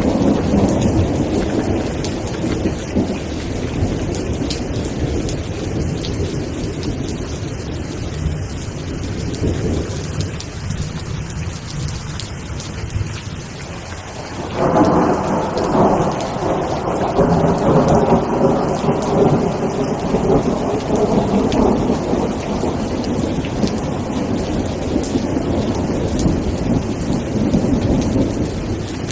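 Thunderstorm: steady rain with rolling thunder. A rumble dies away over the first ten seconds, then a new peal breaks suddenly about halfway through and rumbles on to the end.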